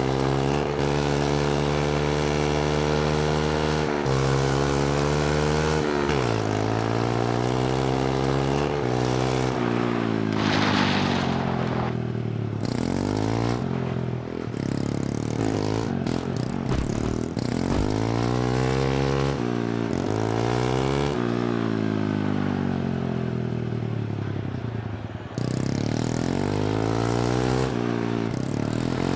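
Mini bike's small engine running, its pitch rising and falling again and again as the throttle is opened and eased off. There is an abrupt jump in level about four seconds before the end.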